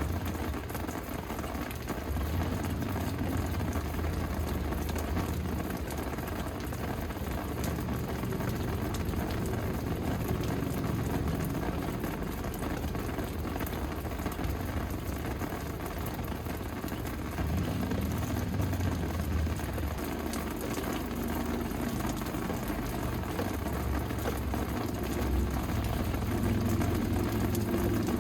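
Steady rain falling, a dense patter of drops, over a low rumble that swells and eases.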